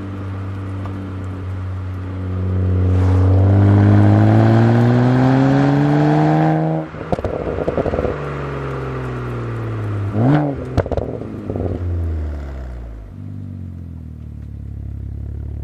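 BMW 135i's N54 twin-turbo inline-six through a custom exhaust with a Borla ProXS muffler. It idles, rises in pitch for about four seconds, then cuts off sharply into a burst of crackling and falls back. About ten seconds in there is one quick blip with more crackles, and then it settles back to idle.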